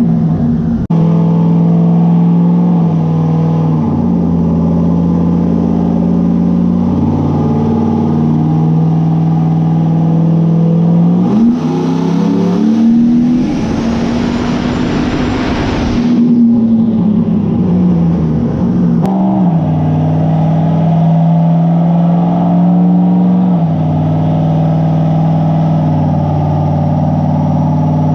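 A vehicle's engine running mostly at a steady speed, its pitch stepping and bending up and down several times. A rise in pitch comes just before the middle, then a loud rushing noise for about two and a half seconds, and the pitch falls back afterwards.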